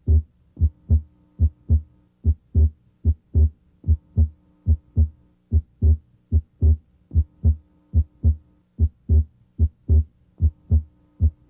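Human heart sounds heard through a stethoscope's diaphragm at the left second interspace: a regular lub-dub rhythm in which the second heart sound (S2) is split abnormally wide, the split coming and going with respiration. A faint steady hum lies beneath.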